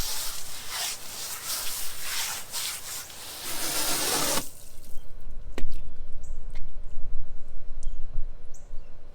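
A wet chamois being worked and wrung out, water splashing and dripping, which stops abruptly about four and a half seconds in. After that only a few faint clicks.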